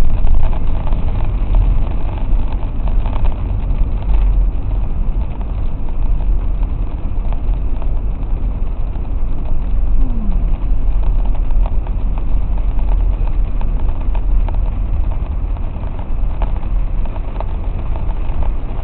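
A car driving on rain-soaked streets, heard from inside the cabin: a steady low rumble with a haze of tyre and rain noise.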